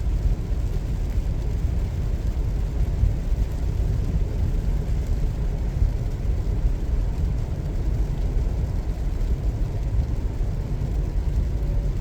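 A car driving on a wet road: a steady low rumble of tyres and engine with a fainter hiss above it.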